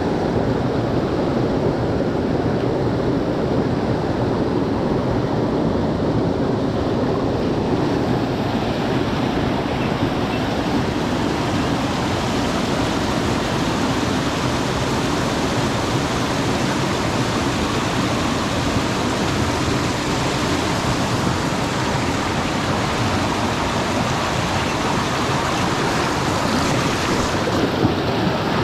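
Mountain stream rushing over rocks in a steady, loud hiss. The sound turns brighter about eight seconds in and duller again near the end.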